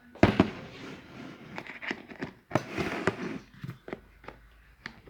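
Plastic cookware being handled, with a couple of sharp knocks about a quarter second in, then scattered clicks, clacks and rustling.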